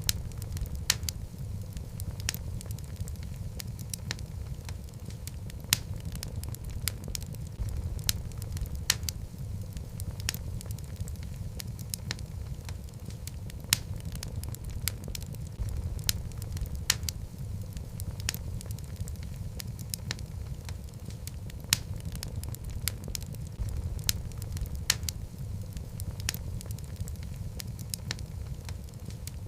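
Wood logs burning in a fireplace: a steady low rumble of flame with frequent irregular crackles and occasional sharper pops.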